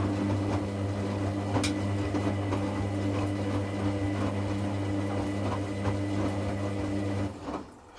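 Hoover Classica 1100 washing machine turning its drum during a rinse: the drum motor hums steadily while water and laundry slosh and knock inside the drum. The motor stops about seven seconds in, the pause between tumbling strokes.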